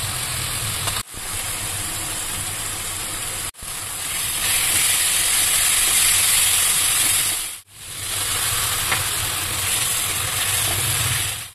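Onion and spice masala sizzling in hot oil in a kadai while being stirred with a silicone spatula. The steady sizzle breaks off briefly three times and is loudest in the middle.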